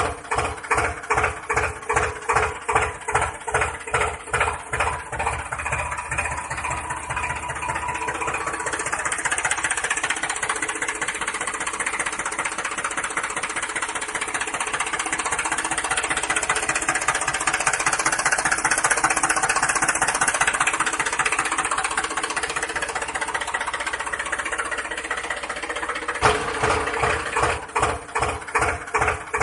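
A DIY toy tractor running with an engine-like chugging, a couple of regular pulses a second, which smooths into a steadier running sound for most of the middle stretch and turns back to the pulsing chug near the end.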